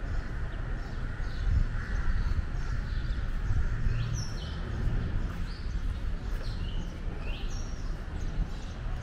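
Small birds chirping over and over in short, downward-sweeping notes, over a steady low background rumble.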